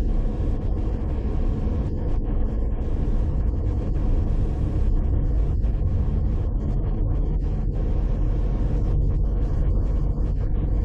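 Steady low rumble of a car driving: road and engine noise with no sudden events.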